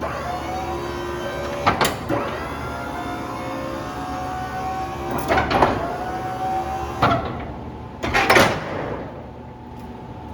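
Fisher snowplow's electric-hydraulic pump motor whining in several runs, with loud clunks between them, as the freshly topped-up hydraulics are cycled.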